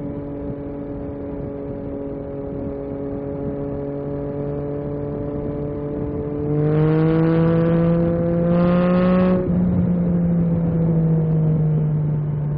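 Yamaha MT-09 SP's three-cylinder engine running at a steady pace, then revving up about halfway through, the pitch climbing with a short dip in the middle, before the throttle closes suddenly and the pitch falls away.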